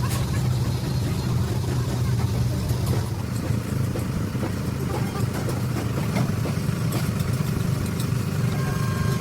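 An engine running steadily with a low hum, with scattered light clicks and knocks over it.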